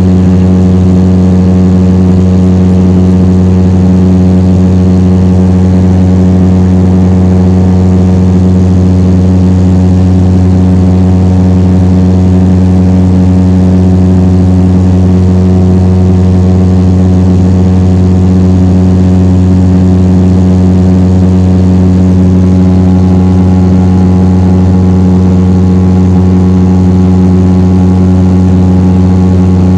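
Steady, loud drone of the A400M Atlas's turboprop engines and propellers: a deep, even hum of several layered tones that does not change in pitch.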